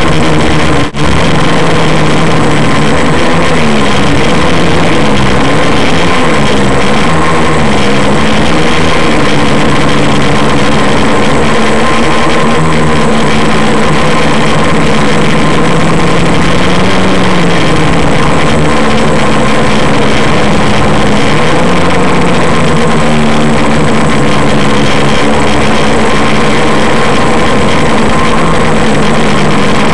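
AeroQuad quadcopter's electric motors and propellers running loud in flight, their pitch wavering up and down as the throttle changes. The sound drops out briefly about a second in.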